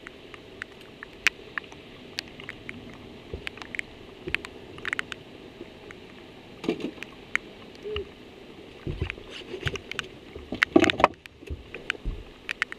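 Irregular sharp ticks of raindrops striking the camera on an open bass boat, over a steady low hiss. A few dull thumps and a short burst of knocking and rustling about 11 seconds in, as an angler moves about the deck.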